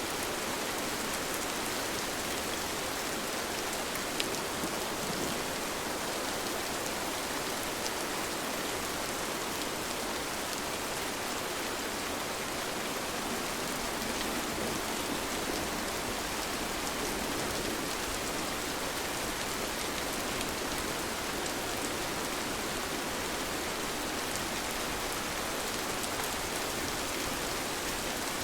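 Steady rain falling, an even hiss with scattered sharp drop ticks; one drip stands out slightly about four seconds in.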